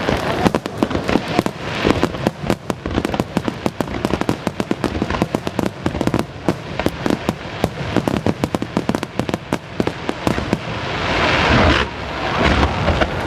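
Aerial fireworks going off in a dense, rapid run of pops and crackles, swelling into a louder rush of crackling near the end.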